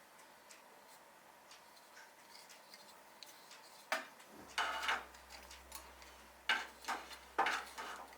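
Sharp clicks and short knocks of small hardware being handled, a few close together in the second half, with faint ticks before; a low hum comes in about midway.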